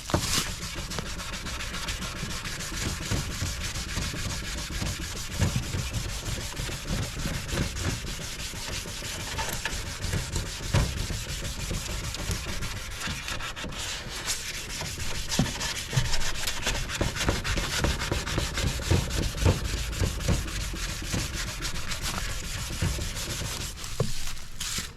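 Sandpaper rubbed by hand over a plastic headlight lens: continuous scrubbing with small irregular scratches and no motor running, the sanding stage of restoring a cloudy headlight.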